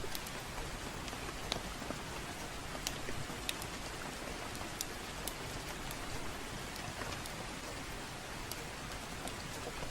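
Steady gentle rain mixed with a crackling wood fire: an even hiss with scattered sharp pops at irregular intervals.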